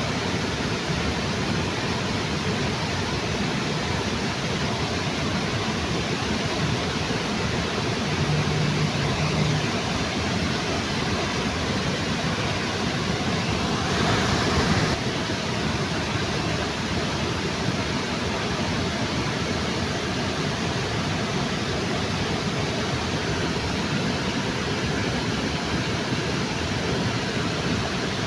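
Waterfall pouring beneath a bridge: a steady rush of falling water, briefly a little louder about halfway through.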